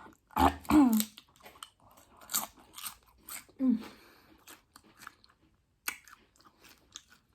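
Close-miked crunching and chewing of Doritos-based loaded nachos, a run of sharp crisp crunches, with short voice sounds about half a second in and again near four seconds.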